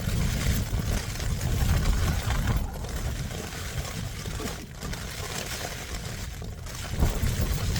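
Storm-force wind gusting against a Hilleberg Jannu tent, with rain on the flysheet: a constant rushing, rumbling noise that eases in the middle and picks up again near the end.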